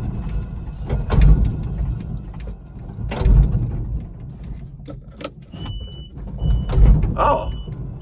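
Zap XL electric mini truck being driven hard, a low rumble that swells three times, with knocks from the body. From about halfway through, a high electronic beep sounds on and off.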